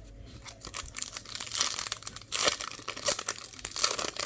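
A trading card pack's wrapper crinkling and tearing as it is handled and opened, in irregular crackling spurts.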